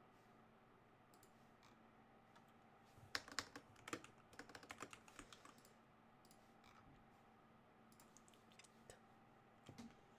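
Typing on a computer keyboard: a quick run of keystrokes about three to five seconds in, then a few scattered keypresses.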